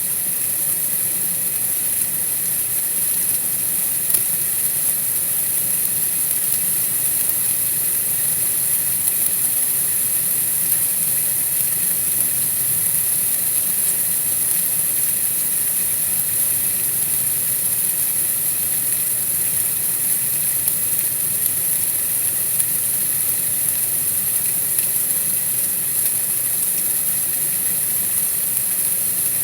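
Steady, even white-noise hiss, strongest high up, with no separate events or changes.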